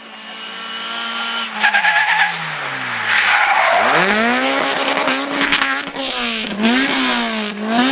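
Race car taking a corner: the engine note falls as it slows, the tyres squeal briefly and skid, then the engine revs up and holds a high pitch, dipping briefly twice before climbing again near the end.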